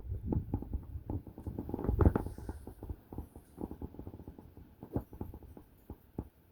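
Strong wind gusts buffeting a phone's microphone: low rumbling bursts with crackling and knocking, heaviest in the first two or three seconds, then easing to scattered crackles.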